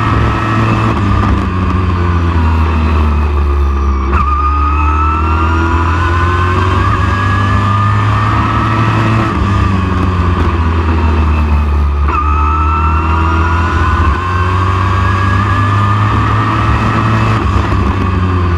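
Southeast Super Truck race engine running at racing speed: its pitch climbs steadily for several seconds and drops abruptly twice, about four seconds in and again about twelve seconds in, over a constant heavy low rumble.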